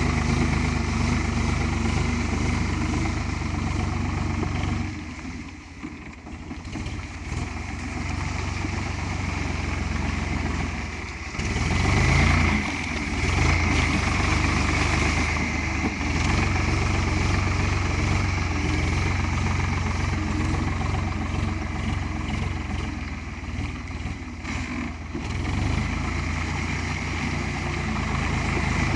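Ford 3600 tractor's three-cylinder engine running steadily while working wet clay. It eases off for a couple of seconds about five seconds in and picks up again with a louder surge about twelve seconds in.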